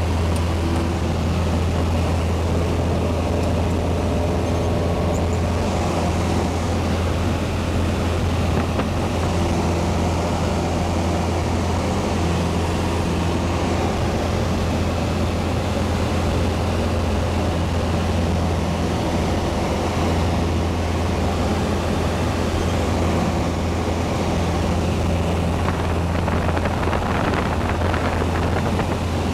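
Piper Cherokee's single-engine piston engine and propeller droning steadily from inside the cabin, a strong low hum under a wash of air noise, with no change in power.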